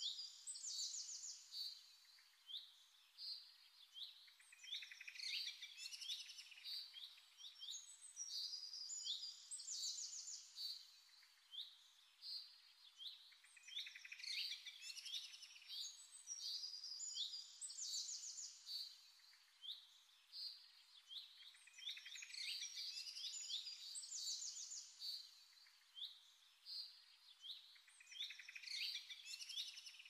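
Birds chirping, in clusters of quick high chirps and trills with short lulls between them.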